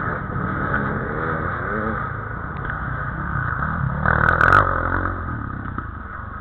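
Enduro dirt bike engines revving, the pitch rising and falling, with a short louder clatter about four seconds in.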